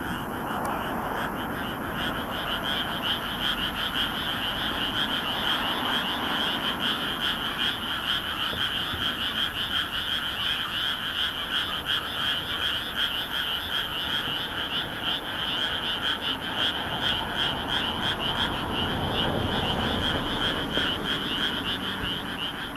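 A large chorus of frogs calling in a flooded rice paddy: many overlapping, rapidly pulsed croaks merge into a continuous shrill trilling, which grows fuller about two seconds in.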